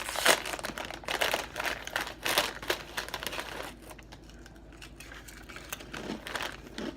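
Food packaging crinkling and rustling as it is handled, denser in the first few seconds, quieter in the middle, and picking up again near the end.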